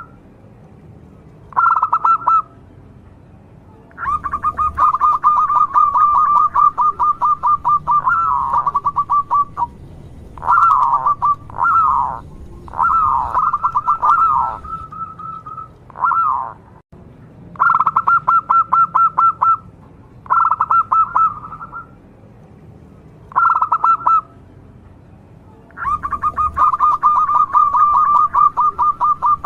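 Local zebra dove (perkutut) singing: about ten phrases of fast, rolling pulsed coos on one pitch, some ending in falling notes, with short pauses between. The longest phrases run several seconds, one near the start and one near the end.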